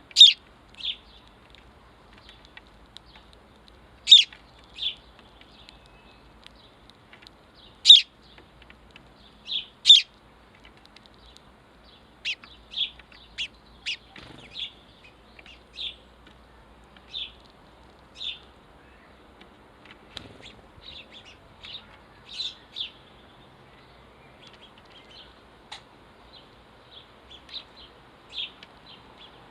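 House sparrows chirping: short single chirps repeated at irregular intervals, the loudest ones in the first ten seconds.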